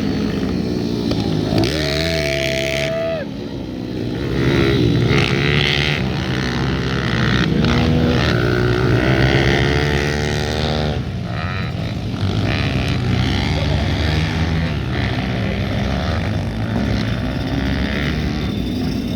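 Several pit bike engines racing together, revving up and down as the riders shift and throttle through the track, their pitches rising and falling over one another. A single high held note stands out for about a second and a half, two seconds in.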